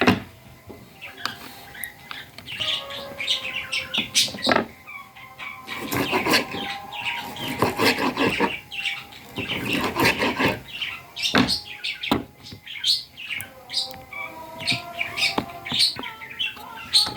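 Birds chirping and calling over and over, with sharp knocks or clicks scattered throughout.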